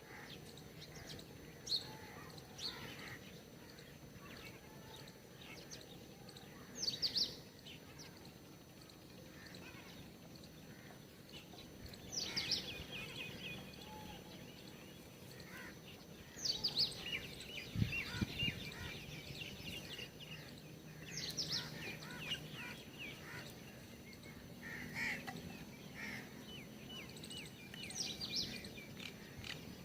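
Birds calling: a short, high, quickly falling call repeats about every four to five seconds, with fainter chirps in between. There is a brief low thump about two-thirds of the way through.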